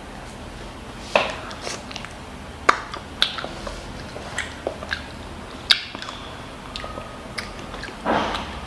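Close-up eating sounds: a child chewing kimchi fried rice, with scattered short sharp clicks and smacks and a short noisier burst near the end.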